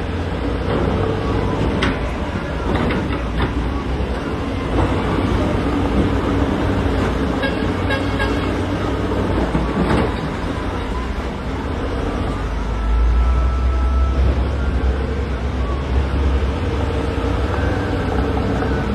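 Heavy diesel engine of a CAT 966D wheel loader running under load, with a few sharp knocks in the first half and a deeper, louder surge in the engine about two-thirds of the way through.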